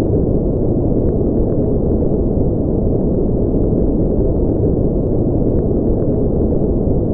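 Steady, unbroken sleep-aid noise track: an even, deep, muffled rushing with no treble, its sound packed into the bass and lower middle like brown noise rather than bright hiss.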